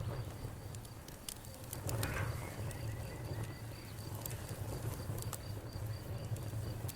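Wood fire burning in a fireplace: irregular crackles and sharp pops over a steady low rumble of the flames, with a louder flare of crackling about two seconds in.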